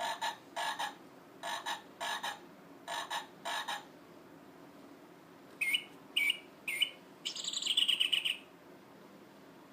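Recorded bird calls played from a children's sound book's small speaker: three pairs of short hooting notes, then three quick upswept chirps and a fast trill.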